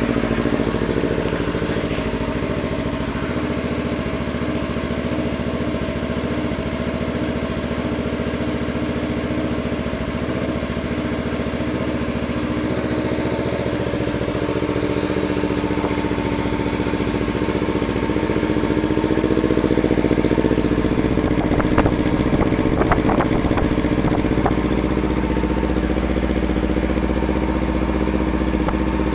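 2016 Kawasaki Ninja 300's parallel-twin engine idling steadily through a Two Brothers aftermarket exhaust, just after start-up.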